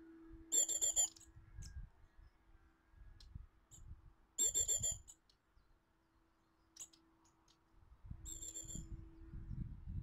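A small garden bird calling three times, each a short trilled call of about half a second, the calls about four seconds apart, over a faint steady low hum and some low rumbling.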